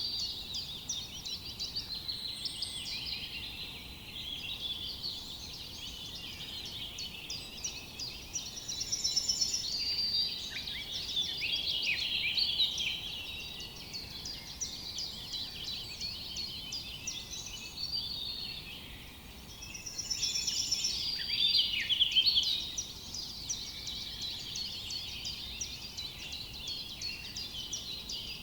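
A chorus of many songbirds chirping and trilling together, dense and overlapping, with louder spells about a third of the way in and again past the middle.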